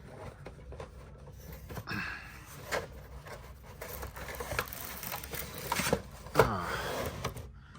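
Plastic packaging of a G-Shock watch set being opened by hand: rustling and rubbing with many small clicks and knocks, and a brief squeak about six and a half seconds in.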